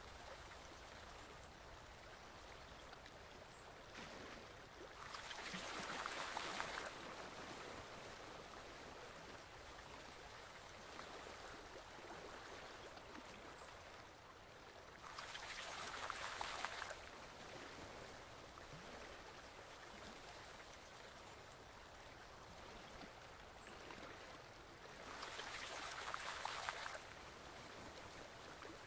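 Forest stream flowing steadily, its rush of water swelling louder three times, about every ten seconds.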